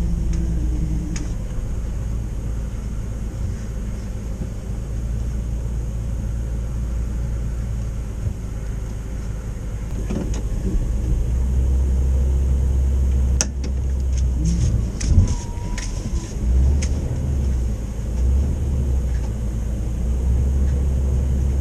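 Motorhome engine running at low speed while maneuvering, a steady low drone that grows louder about halfway through, with a few sharp clicks and knocks in the second half.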